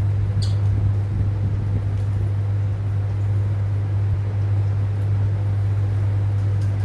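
A steady low hum with a light hiss over it, even in level throughout. A single brief, faint high chirp comes about half a second in.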